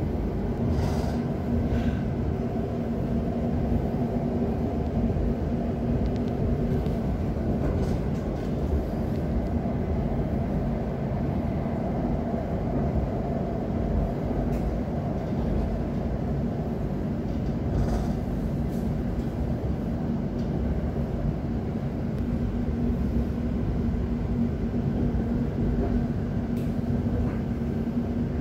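London Overground Class 710 electric train running steadily between stations, heard from inside the carriage: a continuous rumble of the wheels on the track with a steady hum.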